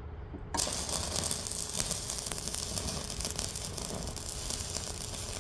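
Stick (MMA) welding arc struck about half a second in, then crackling steadily as a weld is run along a hedgecutter hood edge.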